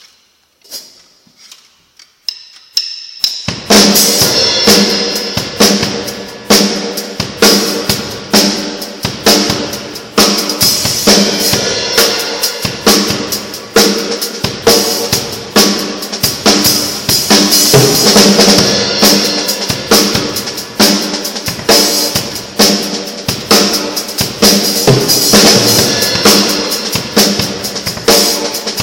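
Drum kit played solo: a few soft taps at first, then about three and a half seconds in the full kit comes in loud with a fast, busy stream of drum hits under a steady wash of cymbals.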